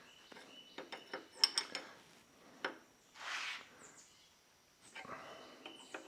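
Hands working at tractor hydraulic hose fittings: scattered light clicks and knocks, then two brief scuffing, rustling sounds.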